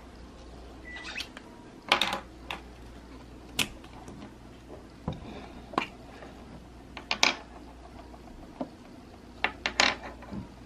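Small plastic toy packaging being opened and handled: scattered crinkles and light clicks, irregularly spaced.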